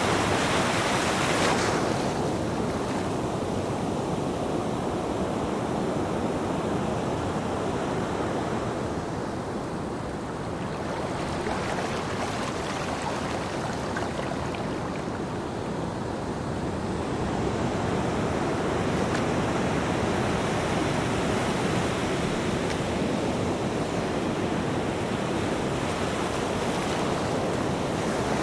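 Ocean surf breaking on a beach and washing back: a bright crash of breaking wave in the first second or two, the rush easing off through the middle, then swelling again in the second half.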